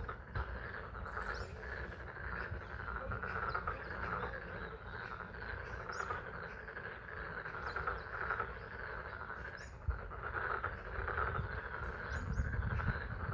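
A chorus of frogs calling steadily from a pond, over the even patter of spring rain.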